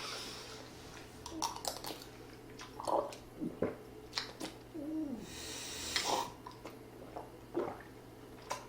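Eating sounds: slurping and chewing, with scattered sharp clicks of utensils and short murmurs from the eater's throat. A longer slurp comes about five seconds in.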